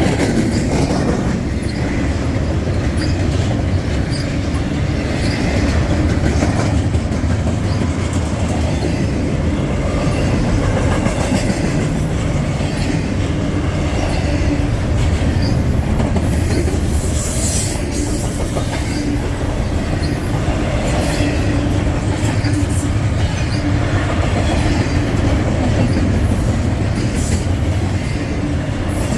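A freight train's cars rolling steadily past with a continuous rumble, the wheels clattering over the rail joints and crossing.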